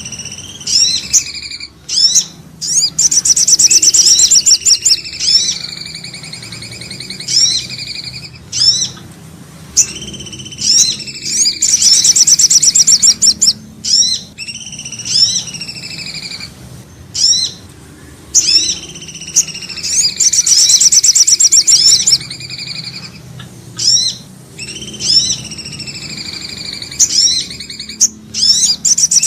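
Bird-lure recording of cipoh (common iora) and sogo ontong calls, repeating about every eight seconds: sharp sweeping chirps, then a loud fast trill, then a long falling whistle.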